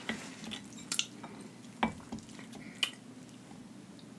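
Close-miked chewing of sauced ramen noodles: soft wet mouth sounds with a few sharp smacks and clicks, about four in all, over a faint low hum.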